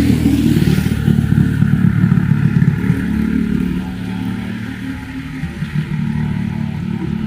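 A motor vehicle's engine running close by: a low, steady pitched hum with a fluttering rumble, easing off about four seconds in.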